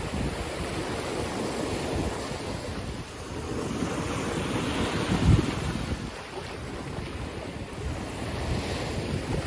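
Sea waves washing onto the shore, with wind buffeting the microphone. The surf swells louder from about three and a half seconds in, peaking with a gusty thump about halfway through.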